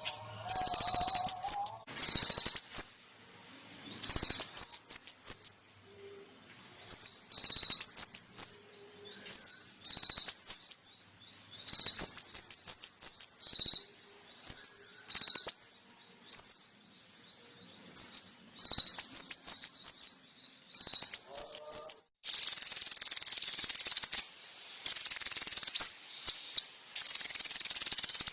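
Konin (sunbird) song: short bursts of high, thin chirps and quick twittering runs, separated by brief pauses. Near the end it turns into longer, unbroken buzzy trills.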